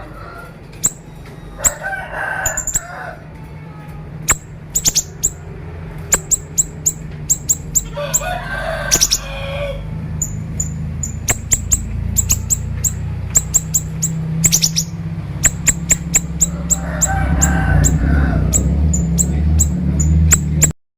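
Siri-siri bird singing in rapid 'konslet' style: bursts of sharp, very high chirps in quick succession, repeated throughout, over a steady low rumble.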